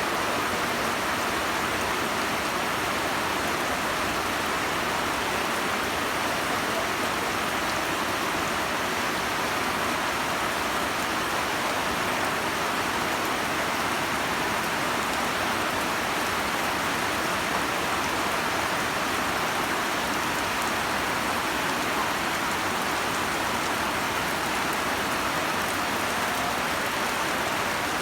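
Heavy rain falling in a storm, a steady, even hiss of rain pouring down without a break.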